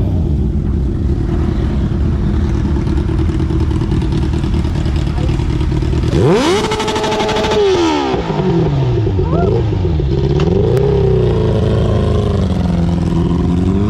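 Superbike engine idling, then revved hard about six seconds in: the pitch shoots up, holds for about a second and a half and drops back, followed by a few smaller throttle blips before it settles to idle again.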